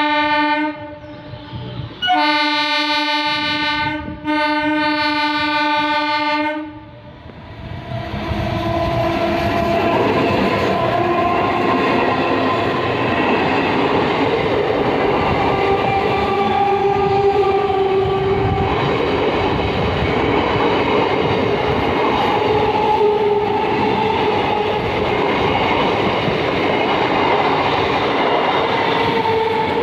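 Electric multiple unit local train sounding its horn as it approaches: one short blast, then two long blasts back to back. Then the train rushes past at speed, with a steady rumble and clatter of wheels on the rails and a faint wavering whine over it.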